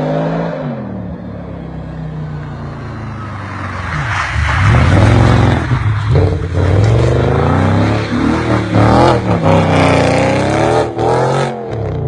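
Audi RS V8 engine revving hard while the car drifts and does donuts on snow, its pitch rising and falling over and over; it grows louder about four seconds in.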